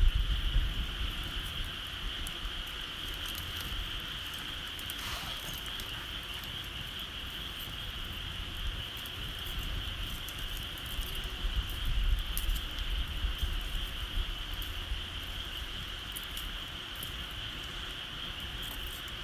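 Bonfire crackling with scattered sharp pops, over a steady high-pitched insect drone. A low rumble of wind on the microphone comes and goes.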